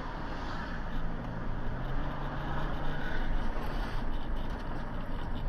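Car on the move: steady engine and road noise picked up by a dashcam, with a low engine hum underneath.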